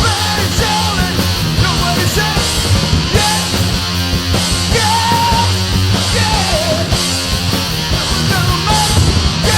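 Loud punk-rock song played by a full band, with a wavering melodic line over a steady, dense backing.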